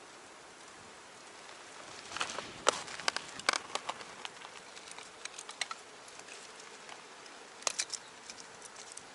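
Wood fire burning in a small box stove, crackling: a steady hiss with irregular sharp pops and snaps starting about two seconds in, and another quick cluster of pops later on.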